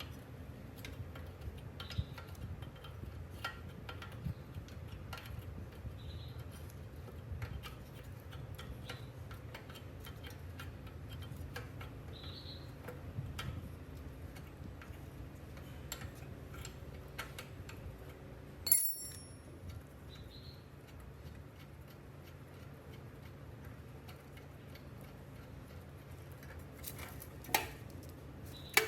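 Light, irregular ticks and clicks of small metal parts being handled, with one sharper metallic clink about two-thirds through that rings briefly, over a low steady hum.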